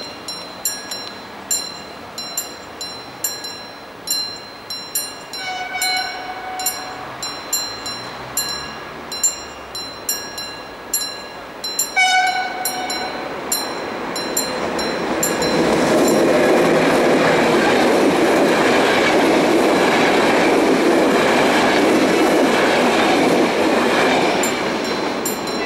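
Train wheels clicking in a steady rhythm over rail joints. A multi-tone train horn sounds for about a second, then once more briefly, from the Siemens Hellas Sprinter class 120 electric locomotive hauling an intercity train. After that come the loud rumble and rush of the train passing close.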